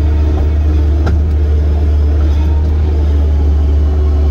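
Diesel engine of heavy earthmoving equipment running steadily with a deep, even drone, with one short click about a second in.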